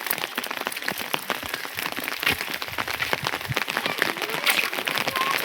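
Rain falling in a dense, irregular patter of drops hitting a surface.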